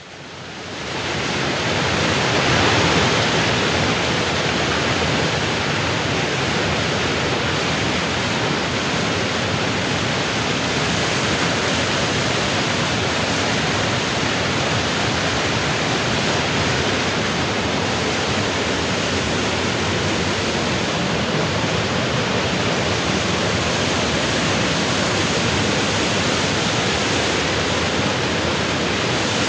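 Rushing water, a dense steady noise with no distinct splashes, fading in over the first couple of seconds and then holding level.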